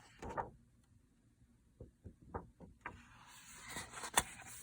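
Paper handling from a picture book: a few soft taps and clicks, then the rustle of a page being turned, with a sharp tap near the end.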